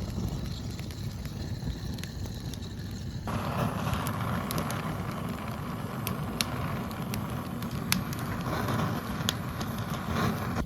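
Wood fire burning, with scattered sharp crackles and pops over a steady low rumble. The crackling comes in from about four seconds in.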